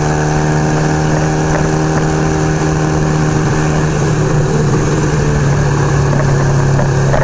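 1975 Kawasaki KZ400's parallel-twin engine running at a steady speed while riding, over a hiss of wind and road noise.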